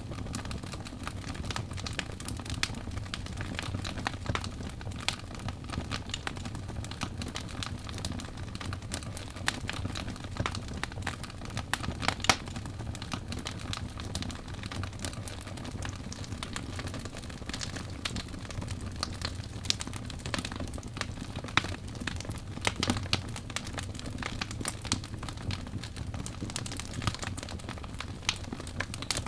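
Wood fire burning in a fireplace: a steady low rumble of flame with frequent irregular sharp crackles and pops from the burning logs, one louder pop about twelve seconds in.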